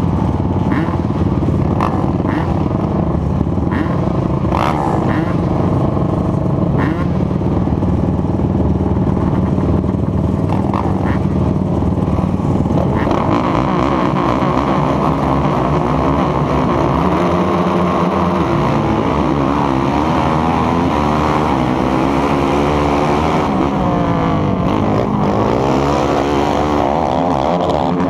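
Racing ATV engine running steadily with a few sharp clicks, then about halfway through revving harder, its pitch climbing and falling repeatedly as it accelerates and backs off.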